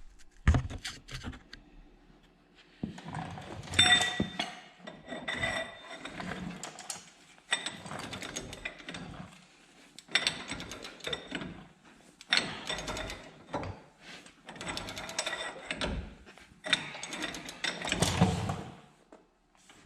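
A ball joint press being cranked down by hand, pressing a new Kryptonite press-in ball joint into the steering knuckle. About seven long strokes, each with metal creaking and squeaking under load.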